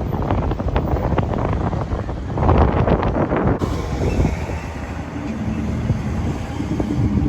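Wind buffeting the microphone over the low rumble of a car's engine; the sound changes abruptly about three and a half seconds in.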